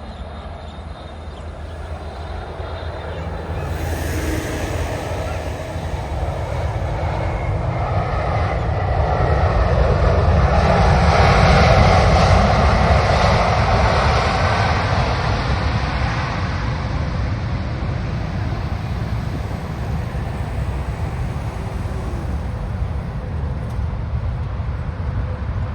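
Jet airliner passing low on approach to land, its engine roar building to a peak about halfway through and then slowly fading, with a whine that bends in pitch as it goes by.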